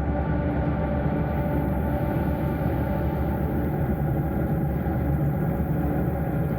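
Honda Gold Wing GL1500 motorcycle's flat-six engine running at a steady pace, a low even hum with road noise.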